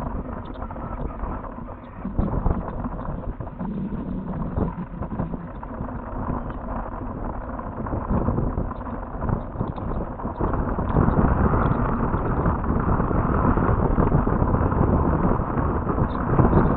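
Wind buffeting an outdoor nest webcam's microphone: a steady low rumbling noise that grows louder about ten seconds in.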